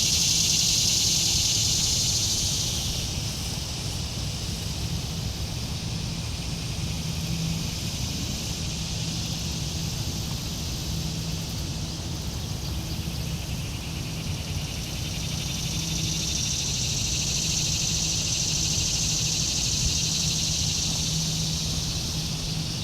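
A loud high-pitched insect chorus, cicada-like, that fades after about three seconds and swells again over the second half, above a steady low rumble and hum.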